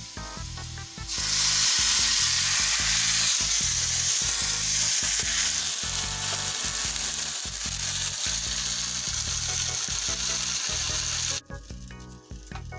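Food sizzling in a hot frying pan, a loud, even hiss that starts suddenly about a second in and cuts off suddenly near the end, with background music underneath.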